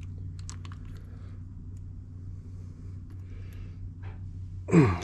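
A few light metallic clicks of a wrench and parts being handled over a steady low hum, then near the end one loud, short sound sliding down in pitch.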